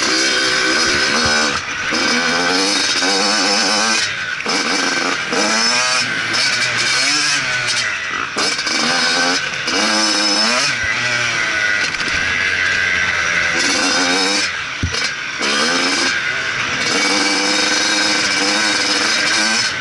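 Motocross bike engine revving hard and repeatedly, its pitch climbing and falling again and again as it accelerates, shifts and backs off around a motocross track. The engine sound drops briefly a few times when the throttle is closed.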